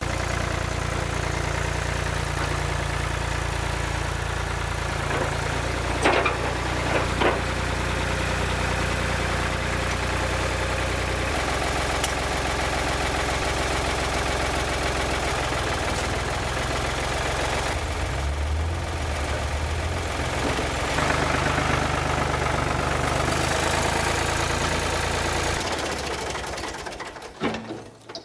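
Ford tractor's engine running steadily, its pitch shifting a few times as the throttle or load changes, with two sharp knocks about six and seven seconds in. The engine sound fades out near the end.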